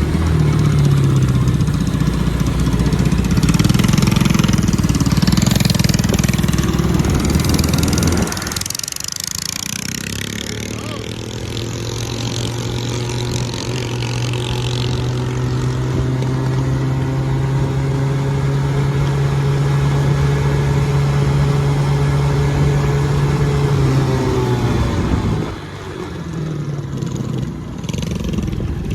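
Minibike's 196cc single-cylinder engine, governor deleted and running through a short header pipe, running hard under throttle. It eases off briefly about a third of the way in, then holds one steady pitch for a long stretch, and eases off again near the end.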